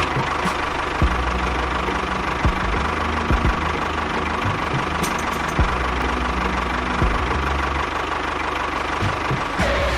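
A small motor running steadily with a dense, rattling noise that starts suddenly and stops shortly before the end, with background music still faintly underneath.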